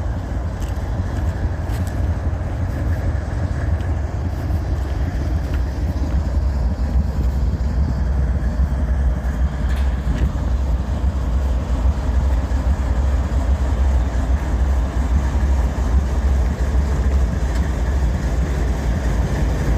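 Diesel freight locomotive idling: a steady, heavy low rumble that does not change.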